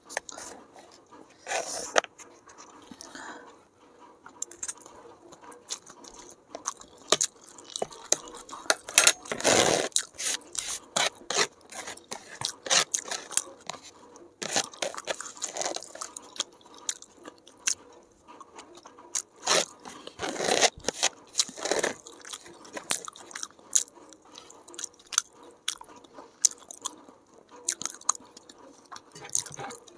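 Close-miked chewing of chow mein noodles: irregular wet mouth clicks and chewing, with occasional clicks of a fork against a plastic tray.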